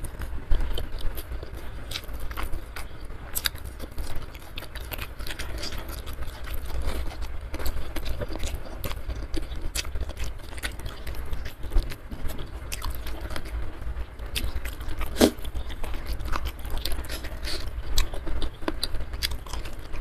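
Close-miked chewing and biting of food, with many irregular sharp mouth clicks and crunches.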